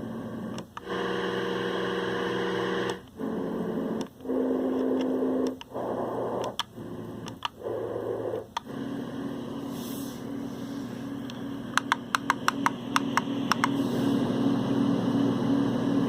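LectroFan white noise machine playing its fan and white-noise sounds, stepping from one sound to the next every second or two with a short gap between each. Each is a steady rushing noise with its own low hum, and after about nine seconds it settles on one humming fan sound. A quick run of about ten clicks comes a little past halfway.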